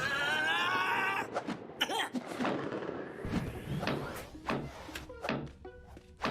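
Cartoon sound effects: a wavering, warbling electronic tone for about a second, the sputtering of a malfunctioning belly badge, then a string of knocks and clunks.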